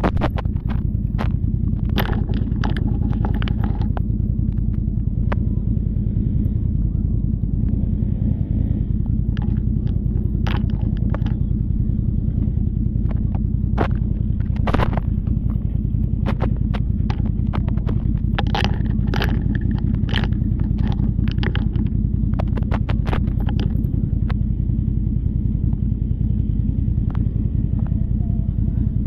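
Can-Am Renegade ATV's V-twin engine running steadily, with scattered sharp knocks and clicks over it.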